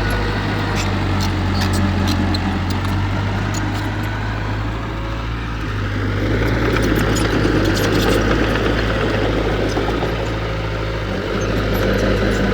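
Heavy diesel earthmoving machinery running steadily, with its rumble growing louder as the engine works harder from about halfway through. Scattered clicks sound over it.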